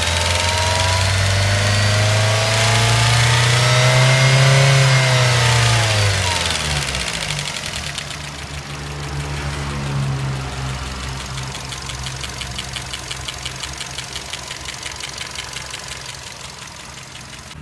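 An engine revs up, rising in pitch for about four seconds, then drops back over the next two or three seconds and runs on steadily at a lower speed.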